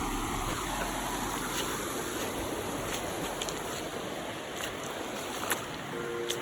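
Steady rush of moving water, with a few light clicks and ticks over it.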